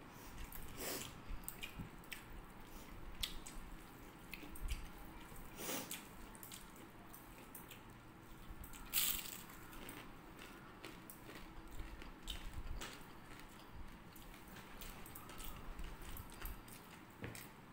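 Close-up eating sounds: chewing and lip smacks of people eating rice and curry by hand, with soft squishes of fingers mixing food on a plate. Short scattered clicks and smacks, one louder smack about nine seconds in.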